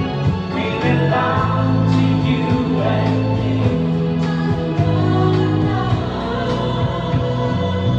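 Music with a choir singing, in a gospel style.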